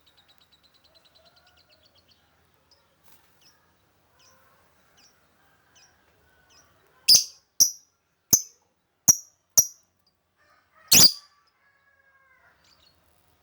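Lovebird calling: a fast, faint chattering trill at first, then scattered faint chirps, then a run of loud, sharp calls, five in quick succession and a last one about a second and a half later.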